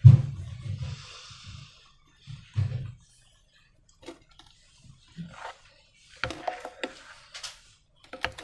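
Slime and rubber balloons being handled by hand: irregular squelches, clicks and taps. The loudest is a low thump right at the start, with another about two and a half seconds in.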